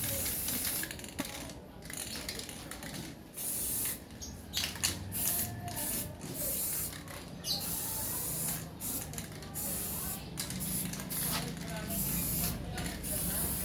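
Hissing, spray-like noise that comes and goes in short bursts, from a stove burning used engine oil and used cooking oil.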